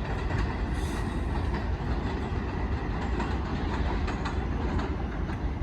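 New York City subway (4) train running on the tracks: a steady low rumble with faint irregular clicks of wheels over the rails.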